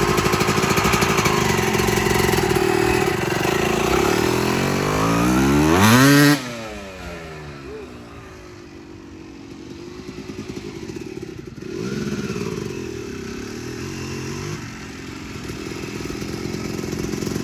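Motorcycle engine revving harder as the bike accelerates, its pitch climbing to a loud peak about six seconds in, then cutting off suddenly and falling away. It picks up again briefly about halfway through and builds once more near the end.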